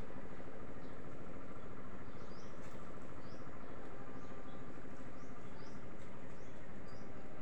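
A bird repeating short, high chirps about once a second over a steady outdoor background hiss.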